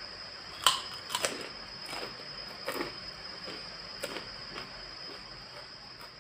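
A handful of sharp clicks and clacks from eating at a table, spaced irregularly, the first about half a second in the loudest, over a faint steady high hiss.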